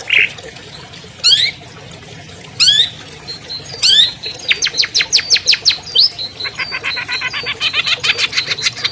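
Long-tailed shrike (cendet) singing a varied song. It gives three loud rising whistled sweeps in the first four seconds, then fast runs of sharp chirps, and closes with a dense, rapid chattering trill.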